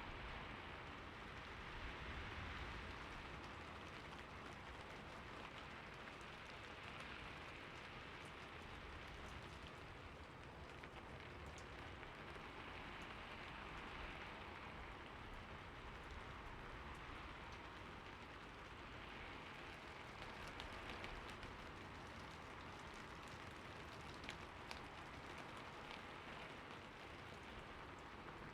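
Steady light rain falling, an even hiss of drops that swells and eases gently every few seconds, with a few faint sharper drop ticks near the end.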